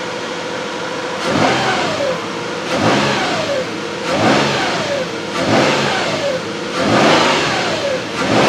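A 2009 Nissan Frontier's 4.0-litre V6 idles for a moment, then is blipped about six times in a row, each rev rising quickly and falling back. It runs smoothly, with no misfire showing at these revs, although the truck has a random-misfire complaint.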